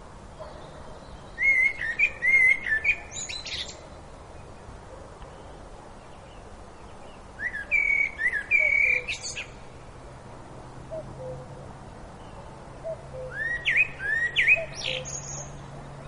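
A songbird singing three separate phrases about six seconds apart. Each phrase is a short run of slurred whistled notes that ends in higher, sharper twittering. Fainter chirps from other birds sound in the pauses.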